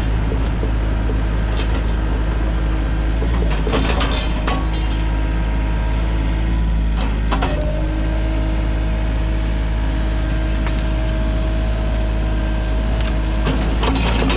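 Sany mini excavator's diesel engine running steadily under work, with a few sharp knocks and cracks. A steady higher whine joins about halfway through.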